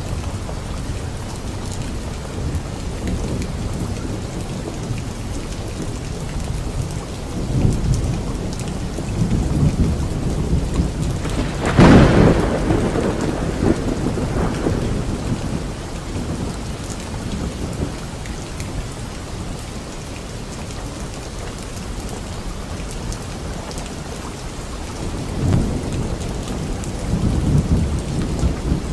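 Steady rain with rolling thunder. A sharp thunderclap about twelve seconds in is the loudest moment and trails off into rumbling, and more low rumbles come near the end.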